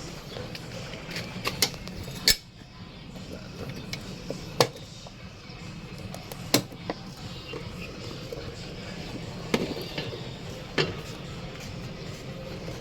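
Scattered sharp metallic clinks and taps, about eight of them spread irregularly over a steady low background noise, like hand tools knocking against metal parts.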